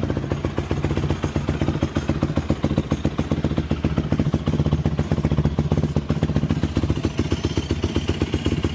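Carbureted Yamaha YFZ450 quad's single-cylinder four-stroke engine running steadily with a rapid, even beat, warming up from a cold start with the choke full on.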